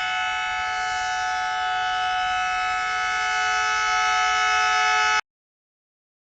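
WDM2 diesel locomotive's multi-tone air horn sounding one long continuous blast, growing slightly louder as the train comes on, then cutting off abruptly about five seconds in.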